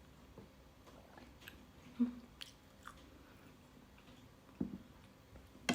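Quiet eating sounds from someone tasting mushroom soup: a few scattered small clicks and mouth sounds with quiet room tone between them.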